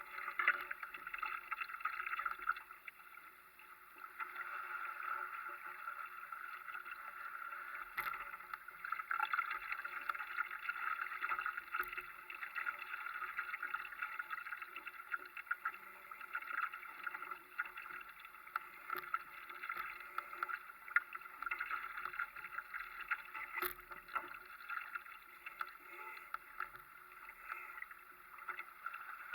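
Water rushing and splashing along the hull of a Europe dinghy under sail, with scattered small knocks and a few louder ones from the boat.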